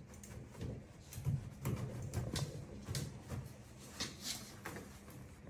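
Dogs scuffling and moving about: a run of irregular soft knocks, clicks and rustles with low uneven rumbles.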